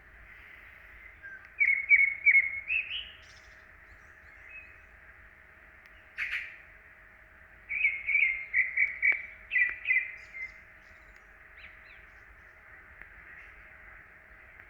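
Songbird singing in short phrases of quick, repeated chirping notes: one phrase about two seconds in, a single call near the middle, and a longer phrase about eight seconds in. Between phrases there is a soft background hiss and a faint steady hum.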